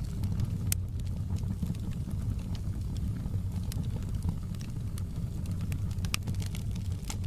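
Wood fire burning in a fireplace: a steady low rumble with scattered sharp crackles and pops, a few louder than the rest.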